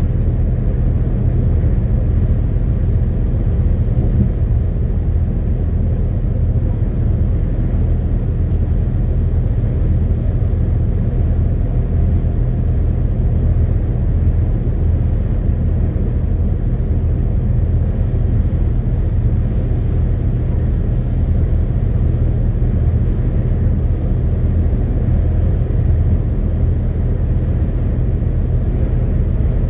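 MAN TGX 18.520 truck's straight-six diesel engine running steadily on the move, a deep, even drone with road noise and no changes in pitch.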